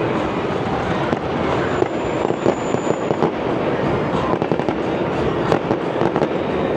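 Fireworks display going off: a dense, continuous crackling of many small bursts, with a few louder bangs mixed in.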